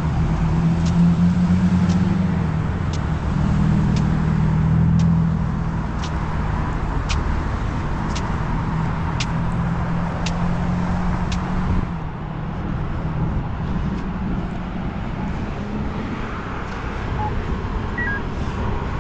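Road vehicle noise: an engine running with a low, shifting hum over road noise. For the first twelve seconds or so, sharp ticks come about once a second.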